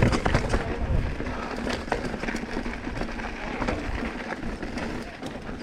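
Mountain bike rolling fast down a rough trail: tyres running over dirt and rock under a steady low rumble, with the bike rattling in many small irregular clicks and ticks.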